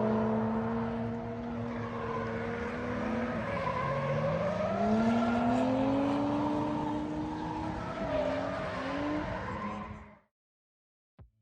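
Motor vehicle engines running, their pitch sliding up and down as they rev. The sound cuts off abruptly near the end.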